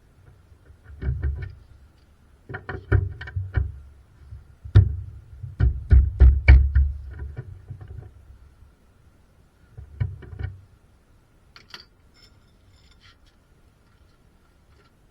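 Irregular knocks and clunks of tools and metal parts being handled during work on the car's rear suspension. They come in clusters, the busiest about five to seven seconds in, with a faint steady hum underneath.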